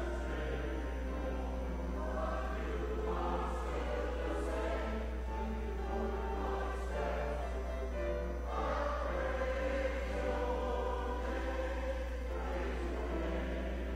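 Choir singing sustained, shifting notes over a steady low hum.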